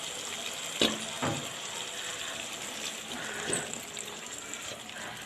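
Chicken pieces being tipped into a clay pot of cooked curry masala, with two sharp knocks about a second in, over a steady wet sizzling hiss.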